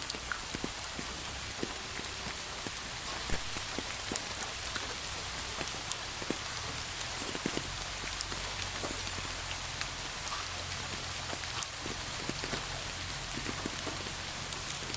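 Steady rain with a constant hiss and many individual drops ticking irregularly on a surface.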